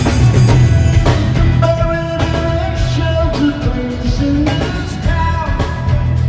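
Live rock band playing, with a heavy bass and drum low end throughout and sustained melody notes held over it about a second and a half in.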